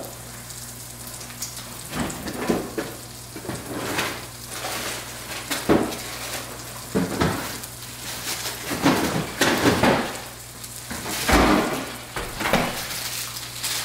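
Burger patties and onions sizzling in a frying pan, with irregular clicks, scrapes and clatter of a utensil against the pan.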